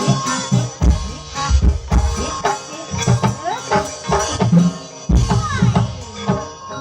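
Javanese gamelan music for an ebeg horse dance: struck metal instruments ringing in sustained tones over repeated deep drum strokes.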